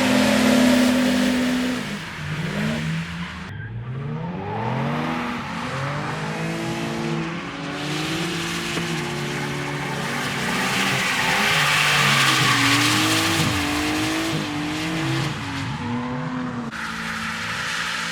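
A drift car's engine revving up and down over and over as it slides, with tyres squealing, loudest about two-thirds of the way through.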